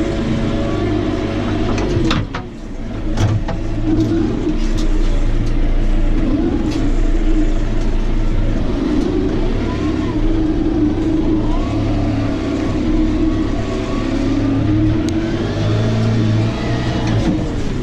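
Tractor engine running steadily under load, with a few sharp clicks and a brief drop in level about two to three seconds in.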